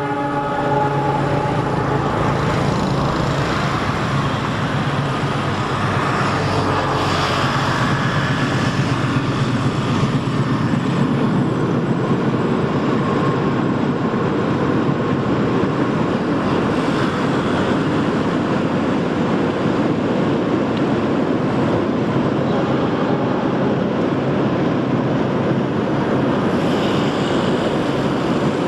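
A diesel-hauled passenger train crossing a long steel truss railway bridge, a steady rumble throughout. A few steady humming tones sit over it in the first couple of seconds.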